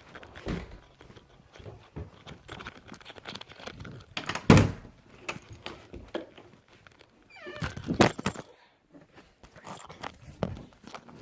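Footsteps and knocks of a handheld recording device being carried through a small room, with one loud thump about four and a half seconds in and a cluster of knocks with a short squeak near eight seconds.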